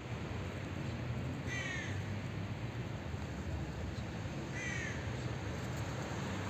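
A bird gives two short falling calls about three seconds apart, over a steady outdoor background hum.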